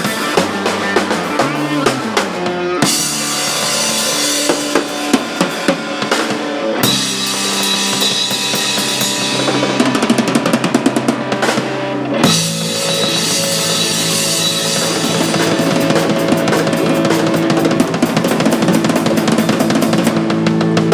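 Band playing at rehearsal: a drum kit with bass drum, snare and cymbals drives over held pitched notes from the other instruments, and the music changes section about twelve seconds in.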